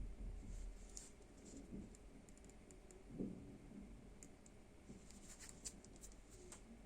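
Faint scattered clicks and handling noise of a small device being handled and pressed, with a soft knock about three seconds in.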